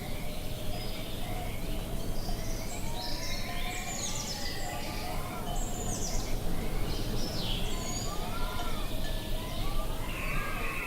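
Several birds chirping and calling, many short quick notes with a few slower rising-and-falling calls lower in pitch, over a steady low rush of wind.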